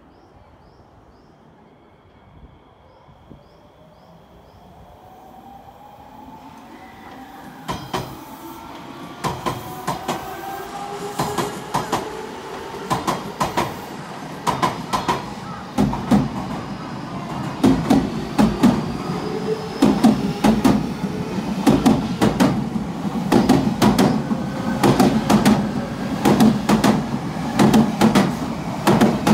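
Odakyu Line electric commuter train pulling away and running past, growing steadily louder: its traction motors whine, rising in pitch as it gathers speed. From about eight seconds in, the wheels clack over the rail joints in groups that come more and more often.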